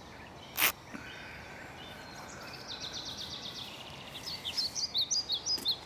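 Songbirds singing in woodland over a steady outdoor background noise: a fast trill of repeated high notes, then scattered high chirps near the end. A brief burst of noise about half a second in.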